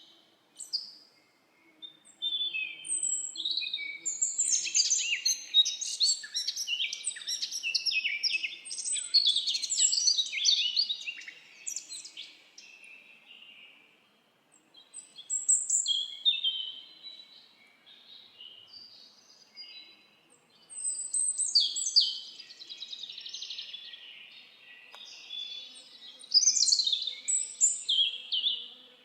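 Several songbirds singing together in a forest, a dense chorus of quick high chirps and trills that swells and thins in waves.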